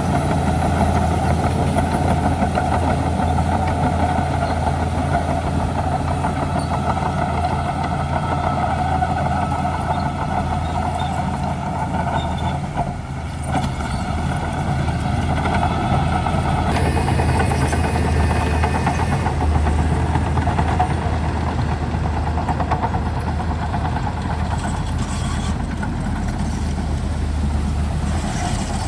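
Diesel engine of a Shantui DH17C2 bulldozer running steadily, with a brief dip in level about halfway through.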